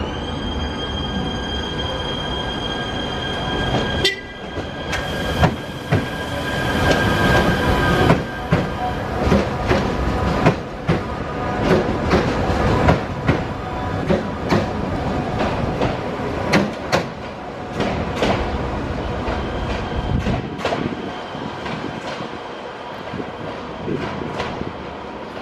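Passenger trains moving on the rails: a steady high-pitched whine for the first few seconds, then a long run of wheels clacking over rail joints with some wheel squeal, dying down near the end.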